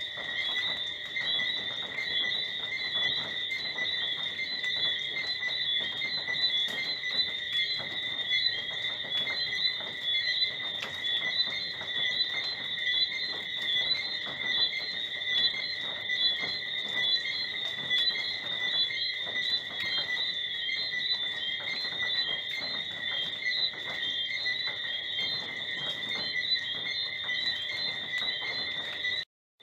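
Tropical rainforest night chorus of frogs and crickets: a steady, shrill mass of overlapping chirps and whistles in two high pitches. It cuts out for a moment near the end.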